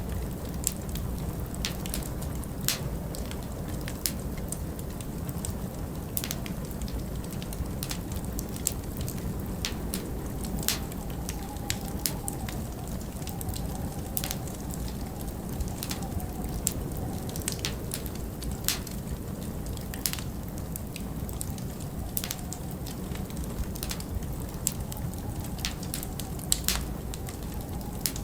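Wood fire crackling in a fireplace, with irregular sharp pops and snaps, over a steady low rush of winter wind; a faint wavering wind whistle rises and falls in the middle.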